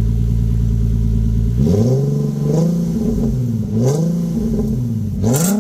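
Infiniti Q50's 3.7-litre VQ37VHR V6 through a muffler-delete exhaust (muffler removed), idling and then blipped three times in quick free revs that rise and fall. A sharp crack is heard near the end.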